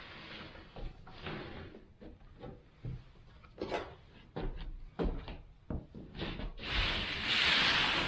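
Knocks and clunks of a wooden shed door being fitted and handled in its frame, a string of separate strikes, followed by a steady rushing noise near the end.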